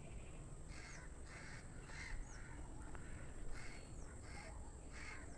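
Faint crows cawing, about seven short caws in three quick runs.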